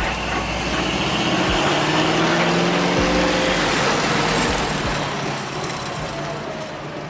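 A car engine pulling hard under acceleration, its pitch rising for a couple of seconds and then levelling off, over a steady rush of wind and road noise.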